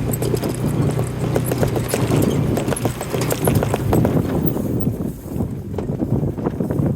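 Irregular clatter of sharp knocks, like footfalls or hooves on hard ground, over a low steady hum that fades away about five seconds in.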